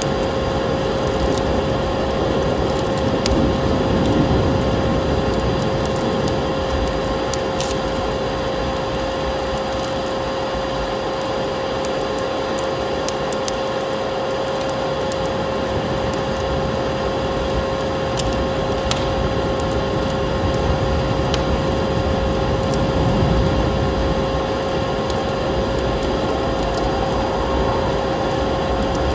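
Wood fire crackling in a fireplace, with scattered sharp pops and snaps over a steady rushing noise that swells now and then, and a constant hum-like tone underneath.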